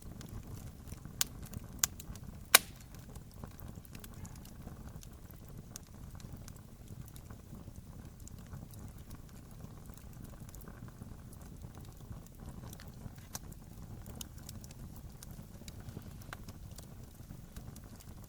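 Wood campfire burning: a steady low rumble of flames with scattered small crackles. Three sharp pops come within the first three seconds, the third the loudest.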